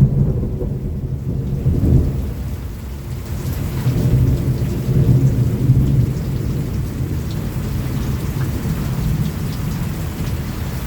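Thunder rumbling low and rolling over steady rain. The rumble swells in the first couple of seconds and again around the middle, then settles into a lower, even roll.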